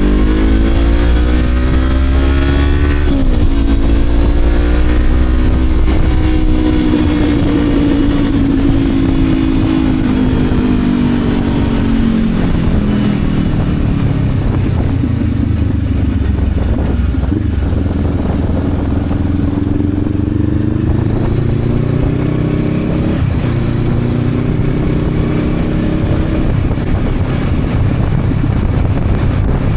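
Honda CB500X's parallel-twin engine under way: its pitch rises, then drops sharply at a gear change about three seconds in, eases off, and builds again later. A steady rush of wind and road noise runs underneath.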